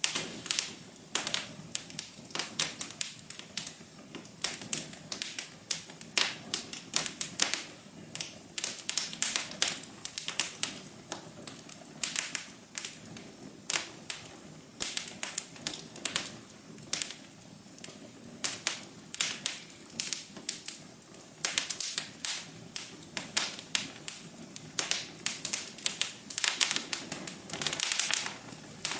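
Wood fire crackling in a fireplace: irregular sharp pops and snaps, several a second, over a soft low hum.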